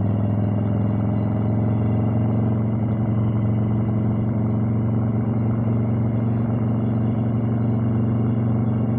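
Harley-Davidson Evolution V-twin engine running steadily, a deep, even exhaust note.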